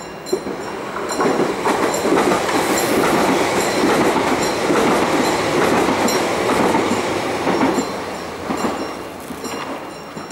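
Siemens Desiro class 460 electric multiple unit passing close by, its wheels clattering over the rail joints. The noise builds about a second in, holds, and fades away near the end.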